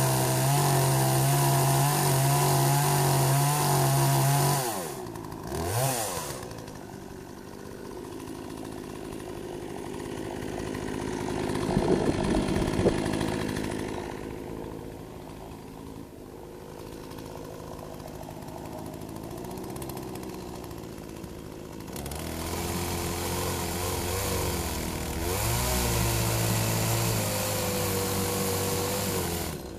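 Poulan 18-inch two-stroke gas chainsaw at high revs, then dropping back about four to five seconds in, with a quick blip of the throttle. It runs slower and quieter through the middle, with a few sharp knocks about twelve seconds in, then speeds up again about twenty-two seconds in and drops back near the end, as it cuts at a tree stump.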